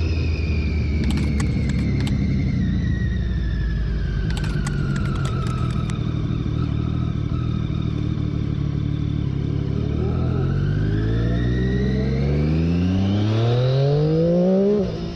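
2014 Triumph Daytona 675's three-cylinder engine, fitted with a Hindle slip-on muffler, winding down for about ten seconds and then accelerating hard with a steadily rising pitch. It is cut briefly by an upshift near the end.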